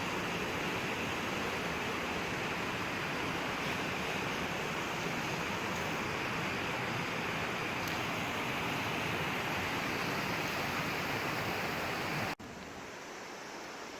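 Steady rush of fast-flowing water. About twelve seconds in it cuts off abruptly and a quieter rush of water follows.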